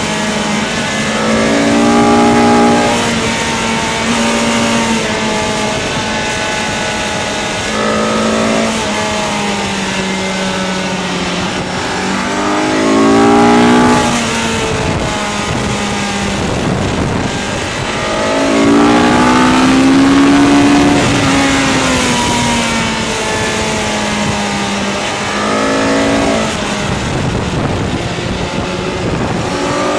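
Sport motorcycle engine at full track pace, revving up through the gears several times with rising pitch and falling away between, over steady wind rush on the onboard microphone.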